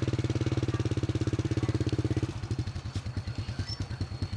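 Small motorbike engine running with an even firing beat. About two seconds in, its note drops and it gets quieter.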